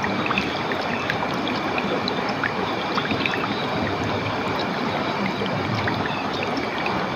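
Running water flowing steadily, with faint short high notes scattered through it.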